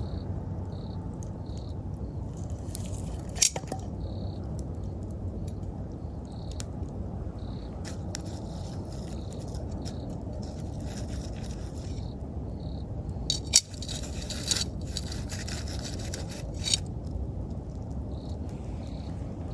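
Wood campfire burning with a steady low rush and sharp crackles and pops, the loudest about three and a half seconds in and twice more after the middle. Autumn insects chirp in short, evenly spaced calls over it.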